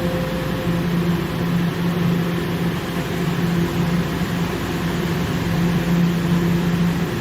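TTC subway train in a station, giving a steady mechanical hum and rumble with a low constant tone.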